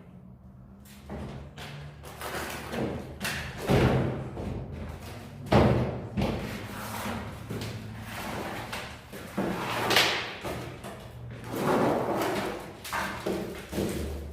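Irregular thuds and scraping strokes of hand plastering work with gypsum plaster, coming every second or two, over background music.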